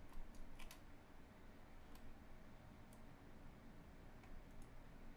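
A few faint, scattered clicks from computer mouse and key presses over quiet room tone, the clearest in the first second.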